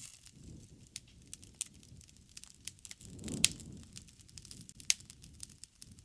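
Wood fire crackling: irregular sharp snaps and pops over a low rustle of burning, with the loudest pop about three and a half seconds in, after a brief swell of the low rush, and another strong pop near five seconds.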